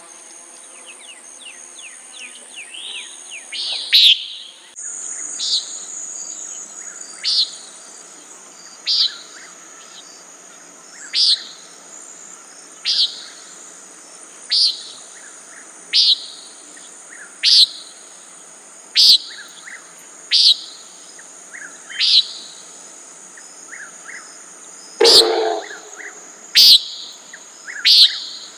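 Common nighthawk calling: a short, buzzy 'peent' repeated about every one and a half seconds, over a steady high insect trill. About 25 seconds in, one louder sound reaches well down into the low range.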